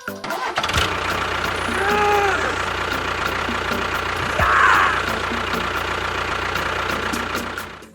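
A small engine or motor running steadily with a fast, even ticking. Two short tones rise and fall about two seconds and four and a half seconds in.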